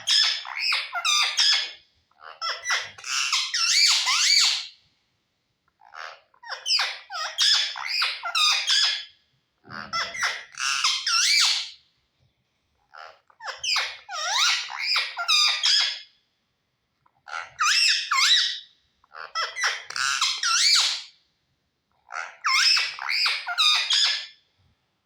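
Pet parrot chattering and squawking in mimicked talk, in about eight short bursts of a second or two each with brief pauses between them.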